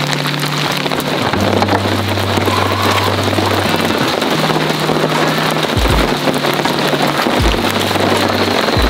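Heavy rain falling steadily, with background music over it: low bass notes that change every second or two and a few deep beats in the second half.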